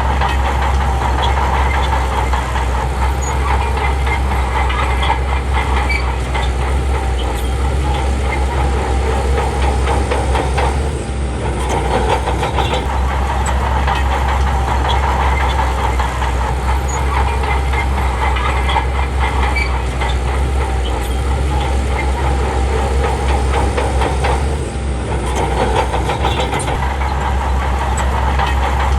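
Diesel engine of a Shantui bulldozer running steadily at working revs, easing off briefly about eleven seconds in and again near twenty-five seconds.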